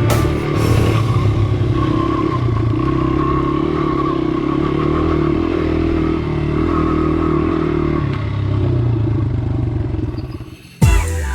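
Honda XR80 dirt bike's small single-cylinder four-stroke engine running at a fairly steady pitch. Near the end it fades out and a single sharp knock follows.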